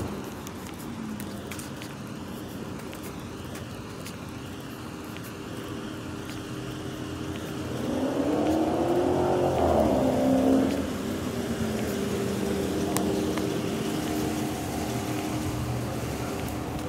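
A car engine running at low speed, its pitch rising as it speeds up about eight seconds in and falling again a couple of seconds later.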